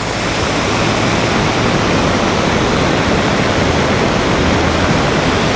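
Floodwater rushing loudly down a swollen creek, a steady, even roar of a torrent.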